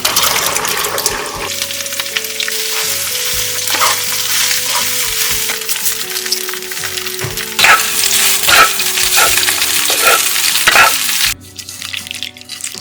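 Food sizzling loudly as it is stir-fried in a hot pan, with a few sharper stirring strokes in the last few seconds before the sizzle stops abruptly about eleven seconds in. Background music plays underneath.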